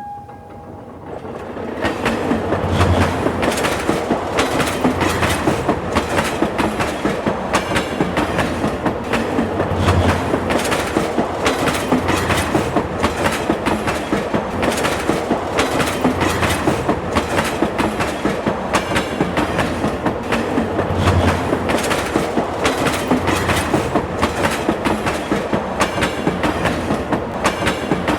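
A train running on the rails, its wheels beating out a quick, even clickety-clack over the rail joints with a steady rumble underneath. The sound swells in over the first couple of seconds and then holds steady.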